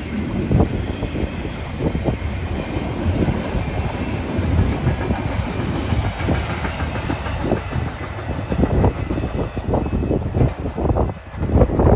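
BNSF intermodal freight train's cars rolling past at speed, a steady rumble with wheels clicking irregularly over rail joints.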